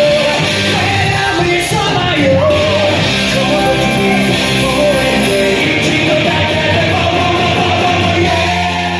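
Rock song with a sung vocal line over guitar and band, loud and steady, starting to fade near the end.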